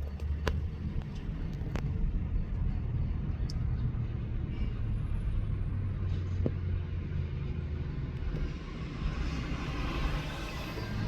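A motor vehicle running with a steady low rumble, with a few sharp clicks and knocks along the way.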